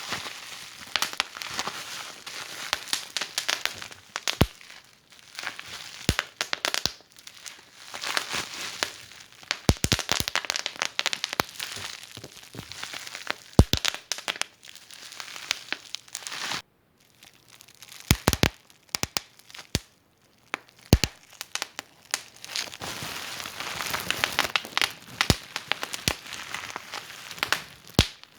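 Wood fire burning in a fireplace, crackling with dense, irregular sharp pops and snaps over a soft hiss, with two brief quiet gaps a little past halfway.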